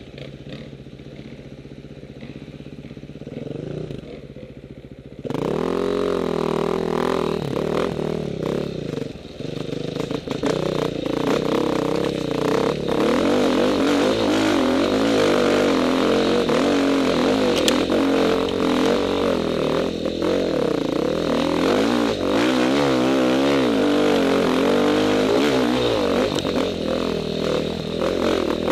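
Off-road motorcycle engine under way. It runs quieter for the first few seconds, then about five seconds in gets much louder and keeps revving up and down as it rides. Scattered knocks and clatter run through it.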